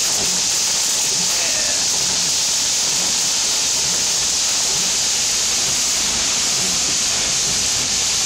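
Heavy thunderstorm rain hitting a car's roof and windshield, heard from inside the car as a loud, steady hiss.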